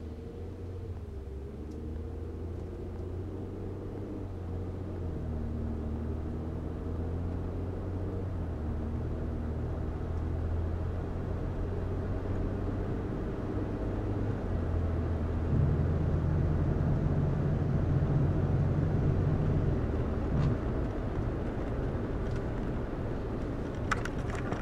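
Ford EcoBoost vehicle running with a steady low engine and road sound. About fifteen seconds in, a loud low steady hum sets in for about four seconds and then fades; this is the strange sound/vibration the owner calls not normal.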